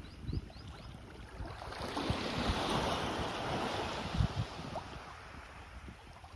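Small sea waves washing up on a sandy beach: one swell of surf rises about two seconds in and fades away again, with a few low thumps.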